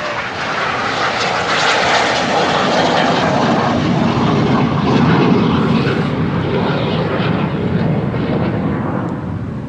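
Aircraft flying past, a loud rushing engine noise that swells to a peak about five seconds in and then slowly fades.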